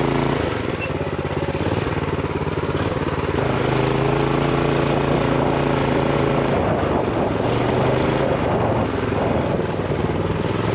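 Minibike's Honda GX390 single-cylinder engine running while riding off-road, its revs capped by a throttle stop screw. The note holds steady for a few seconds at a time and breaks up in between as the throttle changes.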